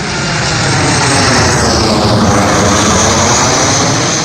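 Departing airliner's engines passing close by on takeoff. A loud rushing roar swells over the first second, sweeps in pitch as the plane goes past, and begins to ease near the end.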